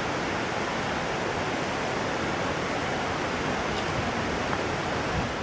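Steady, even rush of falling water from a waterfall, with no change in level.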